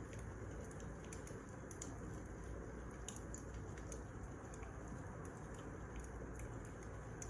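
Wood fire crackling: a steady low hiss with irregular sharp pops and snaps scattered throughout.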